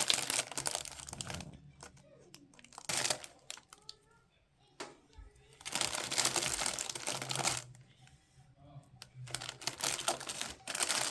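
Packaging crinkling as it is handled, in four crackly bursts with short pauses between them.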